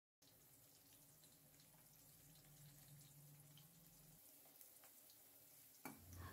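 Faint sizzle of potato wedges frying in mustard oil in a steel kadai, with small scattered crackles. Near the end a spatula knocks against the pan once.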